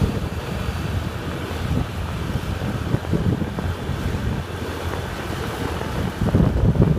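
Wind buffeting the microphone on a moving motorbike: a steady low rumble that surges in gusts near the end.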